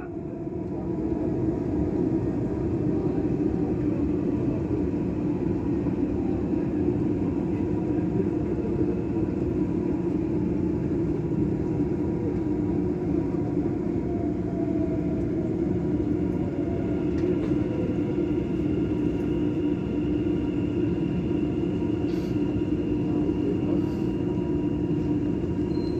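Dubai Metro train running between stations, heard from inside the carriage: a steady rumble of wheels on rail with a low hum and faint steady whining tones.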